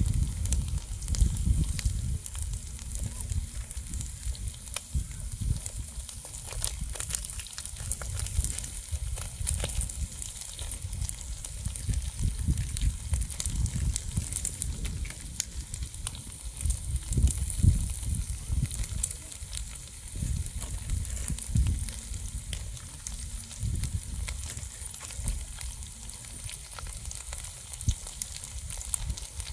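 Rat meat frying in a pan: steady sizzling with frequent irregular crackles and pops, over a low uneven rumble.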